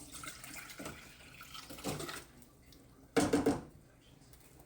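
Canned green beans and their liquid being poured from the can into a pot, with a splashing, sloshing pour for the first couple of seconds, then a short loud clatter about three seconds in.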